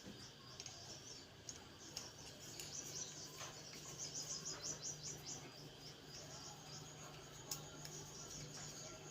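Faint high-pitched chirping in quick runs, from small animals in the background, over a low steady hum, with a few light clicks.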